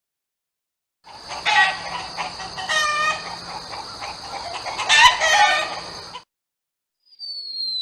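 Rooster crowing sound effect, with chickens clucking, starting about a second in and cutting off suddenly around six seconds in. Near the end a falling whistle tone begins.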